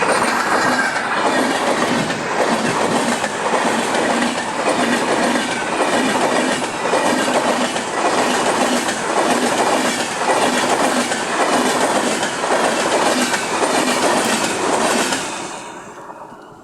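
Express train passing close by at speed, its wheels clattering over the rail joints in a steady rhythm. The sound drops away near the end as the last coach goes by.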